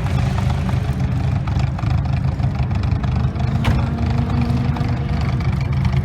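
Classic car's engine exhaust running with a steady, deep rumble. There is one short click about three and a half seconds in.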